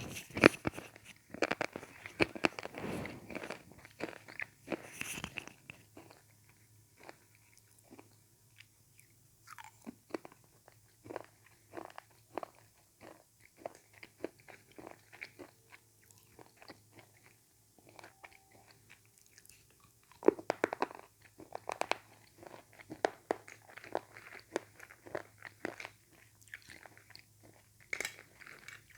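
Slate pencils being bitten and chewed: sharp, dry crunches that come in dense bursts at the start and again about two-thirds of the way through, with sparser single crackles between.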